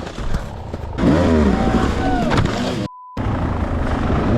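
Dirt bike engine revving up and down, cut about three seconds in by a short single-tone censor bleep, then the bike's engine running on under rough, noisy rumbling.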